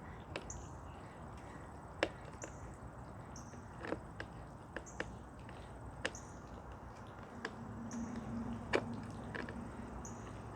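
Sparse sharp clicks and knocks, one every second or two, from a flathead screwdriver prying and unclipping the air filter cover on a Craftsman self-propelled lawn mower.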